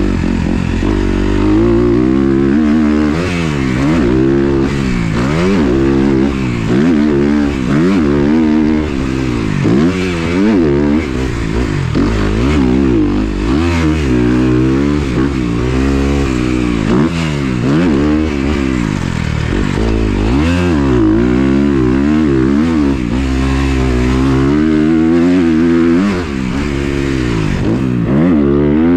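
Motocross dirt bike engine being ridden hard, revving up and falling back over and over, its pitch rising and dropping about once a second.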